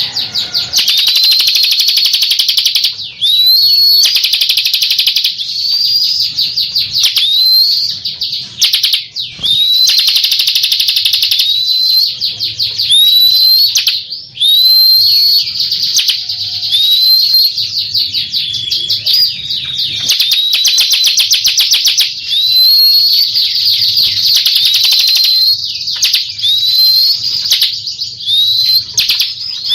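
Bar-winged prinia (ciblek) singing: a high, fast buzzing trill interspersed with short rising whistled notes, repeated about every one and a half to two seconds.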